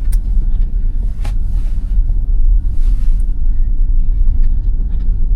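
Steady low road rumble inside the cabin of a 2021 Tesla Model Y, an electric car with no engine note, driving on a snow-covered road. A few sharp clicks and two brief soft hissing swishes sound over it.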